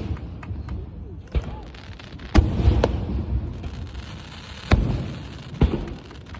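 Aerial fireworks shells bursting: about four sharp bangs, each trailing off in a low rumble, the loudest about two and a half seconds in.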